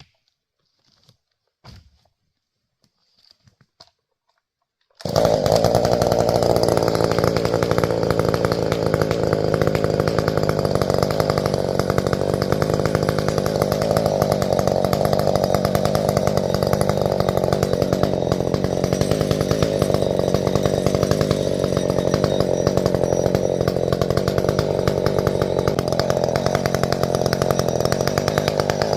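Faint clicks, then a chainsaw starts loud about five seconds in and runs steadily at full throttle, cutting the back cut into a grand fir trunk.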